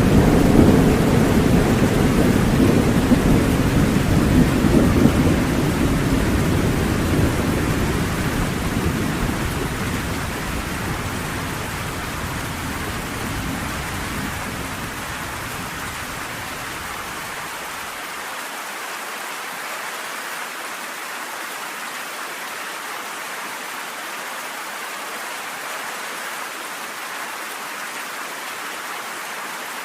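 Steady rain with a long rumble of thunder that dies away over the first half, leaving only the rain.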